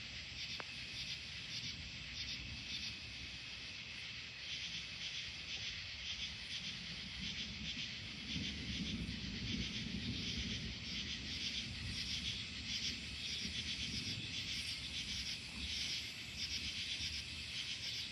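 Night insects chirping in a steady, pulsing chorus, with low distant thunder rumbling underneath that swells about halfway through and keeps rolling.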